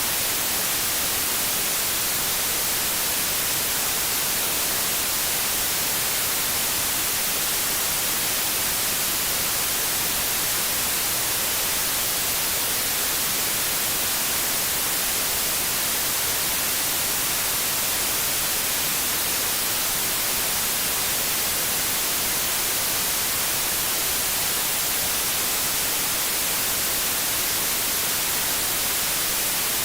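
TV static hiss, the white noise of an untuned television: a steady, even hiss that is brightest in the highs and does not change.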